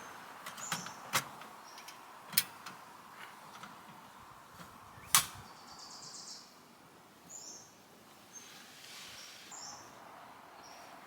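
A few sharp clicks and knocks, the loudest about five seconds in, with short high chirps in between.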